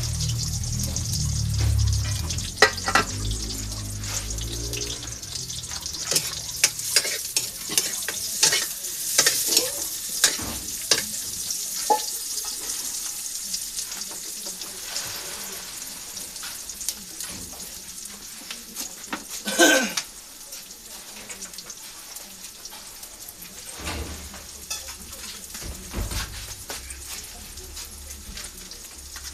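Food sizzling in a hot pan while it is stirred, with frequent clicks and scrapes of a utensil against the pan and one louder clatter about twenty seconds in.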